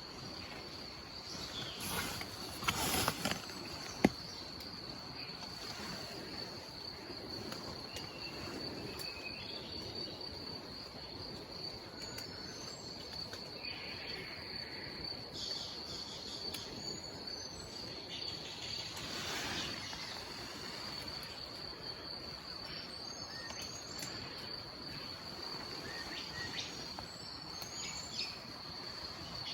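Rainforest ambience: a steady high-pitched insect drone with scattered bird calls and chirps, over the even rush of a distant waterfall. A single sharp click about four seconds in.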